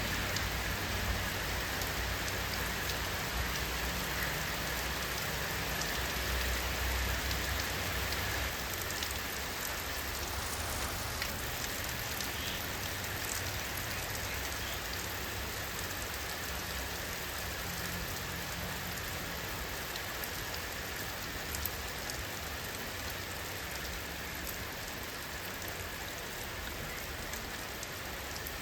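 Steady rainfall: an even hiss of drops landing on surfaces, with scattered individual drop ticks. A low rumble underneath fades out about nine seconds in.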